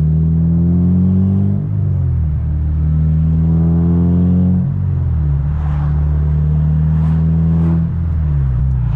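Honda K24 inline-four engine heard from inside the Civic Si's cabin, pulling hard through the gears: its note rises in pitch, then drops sharply at each of three quick upshifts, about every three seconds.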